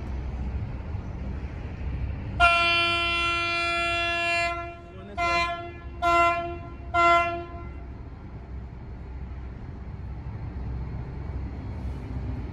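A vessel's single-tone horn sounds one long blast, then three short blasts about a second apart, over a steady low engine rumble. Three short blasts is the signal for a vessel going astern, which fits a boat backing around on a line.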